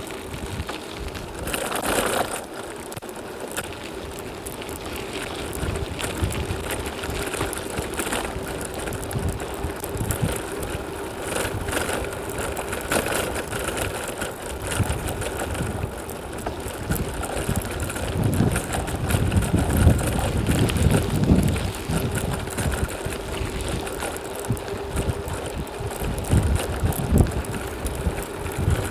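Strong wind buffeting the microphone of a camera on a moving bicycle, mixed with the bicycle's running noise, with a faint steady hum underneath. The low rumbling gusts swell loudest in the second half.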